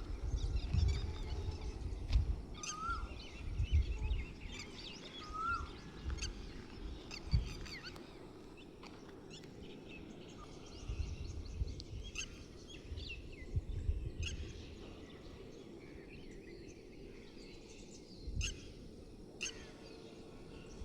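Several wild birds chirping and singing in quick high trills, with a short rising whistled note repeated three times in the first few seconds. Low rumbling noise comes and goes underneath, mostly in the first half.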